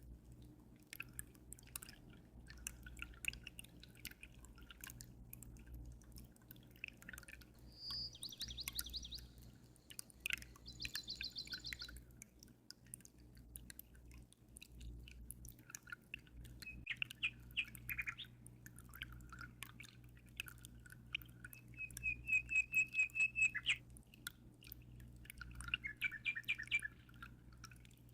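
Small songbirds chirping and trilling in short separate phrases, the loudest a rapid, even trill about two-thirds of the way through. Water drips and trickles throughout as small clicks, over a steady low hum.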